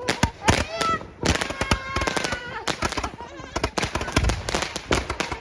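Fireworks going off in a rapid string of sharp cracks and bangs, many in quick succession.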